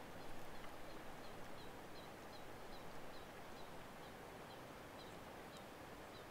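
A small bird repeating a short, high chip note about three times a second, faint over a steady background hiss.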